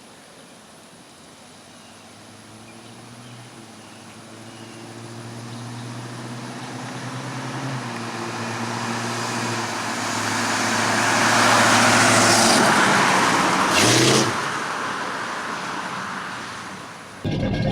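1964 Pontiac GTO's 389 V8 through Flowmaster Super 44 mufflers, driving past: engine and road noise grow steadily louder for about twelve seconds, peak, then fade as the car moves away. There is a brief louder surge about fourteen seconds in.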